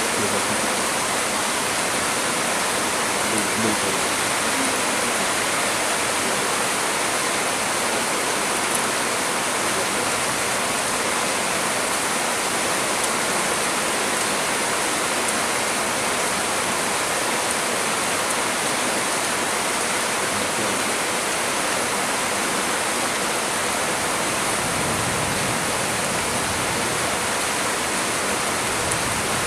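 Heavy storm rain falling steadily on trees, a dense, even hiss with no breaks or changes.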